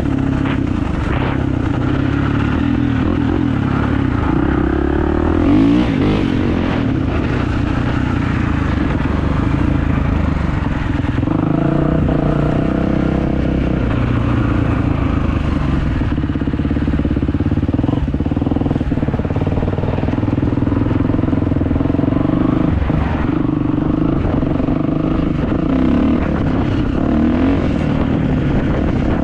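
Kawasaki motocross bike engine running while riding, loud and steady, with the pitch rising and falling now and then as the throttle changes.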